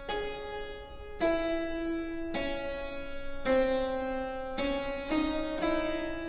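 Harpsichord-like keyboard music playing a slow, even run of single plucked notes, a new note about every second, as an introduction.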